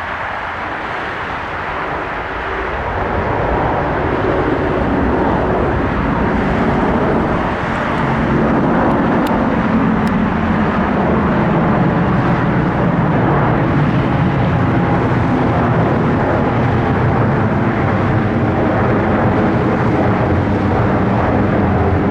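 Airliner engines passing close by: the noise grows louder over the first several seconds, then holds loud and steady, with faint steady engine tones through it.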